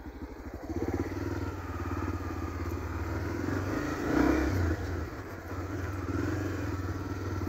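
Single-cylinder engine of a Honda XRE motorcycle running at low road speed. It picks up throttle about a second in and swells briefly louder around the middle.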